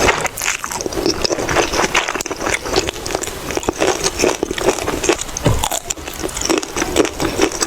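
Close-miked eating of noodles: chewing with a dense run of small wet clicks and smacks over a steady hum.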